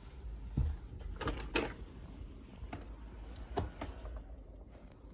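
A few irregular clicks and knocks over a low steady rumble, the loudest about a second and a half in.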